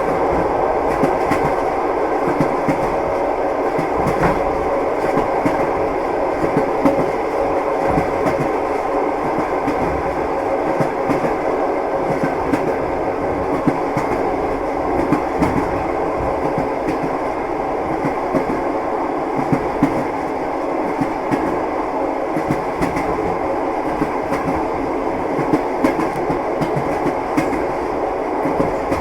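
Train wheels clattering on the rails: a steady rumble of a moving railway carriage with irregular sharp clicks from the wheels over the track.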